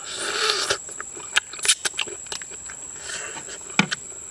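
A person eating cooked prawn: wet chewing and lip-smacking, with a string of short sharp clicks and crunches as the flesh is bitten and chewed.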